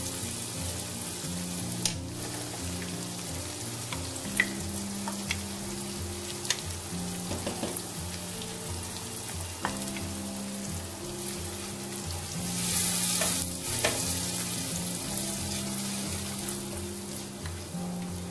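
Spiced yogurt mixture sizzling in hot oil and fried onions in a cooking pot, with a few sharp taps. The sizzle swells louder for a second or two about two-thirds of the way through.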